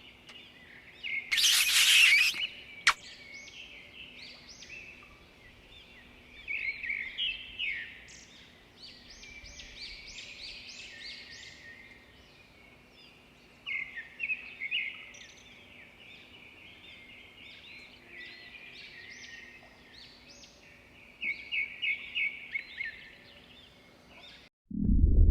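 Small birds chirping and twittering in scattered bursts over a faint steady hum. About a second in, a short loud rushing noise is followed by a single sharp click.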